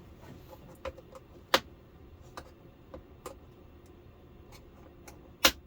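Plastic clips on a Samsung LCD TV's surround being prised loose: scattered light clicks, with two sharp snaps, one about a second and a half in and one near the end.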